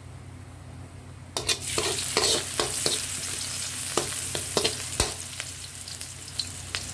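Chopped garlic and onion sizzling in hot oil in a metal wok, starting about a second and a half in. A metal spoon stirs and scrapes against the pan, giving repeated sharp clicks over the sizzle.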